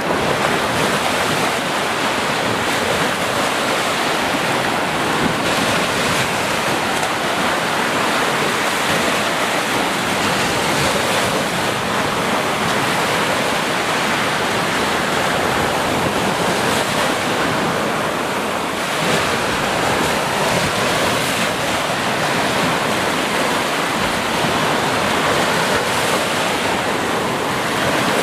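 Ocean surf breaking and washing on a beach: a continuous rushing wash of waves that swells and eases slowly, without pause.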